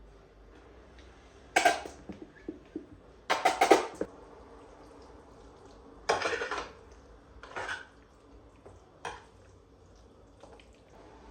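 Hard household objects clattering and clinking as they are handled and set down on a hard surface, in several short bursts with pauses between.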